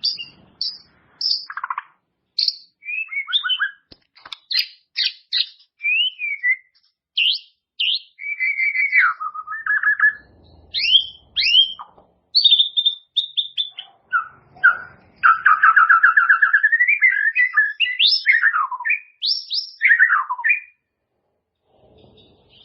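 White-rumped shama (murai batu) singing a long, varied song of clear whistled notes, quick slurs and rising and falling phrases, with a long rapid trill about two-thirds of the way through.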